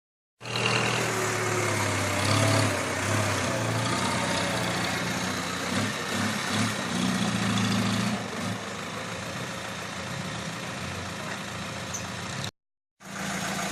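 Dump truck engine running steadily with a low drone, cutting off for about half a second near the end before coming back.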